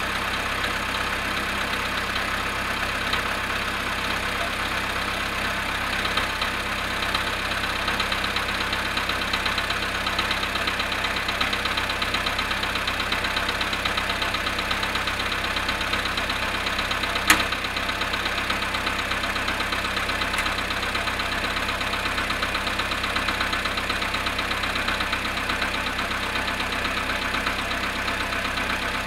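Volkswagen Polo Sedan engine idling after standing 19 hours at −1 °C, with a fast, even knocking running through the idle. A single sharp click a little past halfway.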